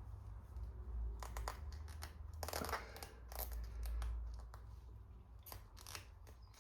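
Faint clicks and scrapes of a part being worked loose by hand from a fuel pump assembly, a handful of short separate sounds with pauses between them.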